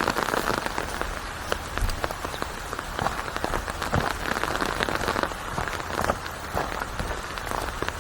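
Steady rain falling, with many separate drops heard striking a surface through an even wash of rain noise.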